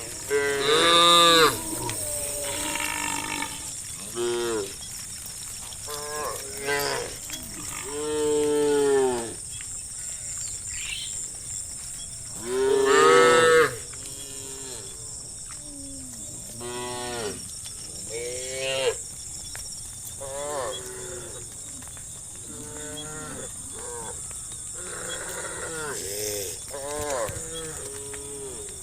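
Herd of cattle mooing, many calls from different cows overlapping throughout. The loudest long moos come about a second in, around eight seconds in and around thirteen seconds in.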